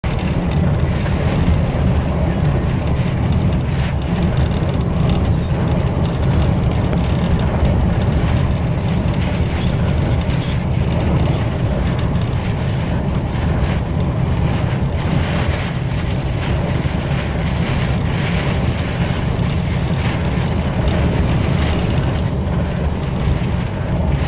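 Steady low rumble and hiss of a car driving, with wind noise, during a storm.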